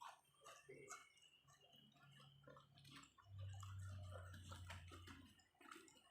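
Close-up quiet chewing with many small wet mouth clicks, and a low steady hum for about two seconds in the middle.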